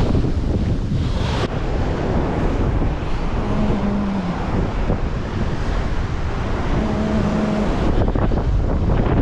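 Strong wind buffeting the microphone, with surf breaking behind it. Twice a short, low steady hum sounds briefly through the noise.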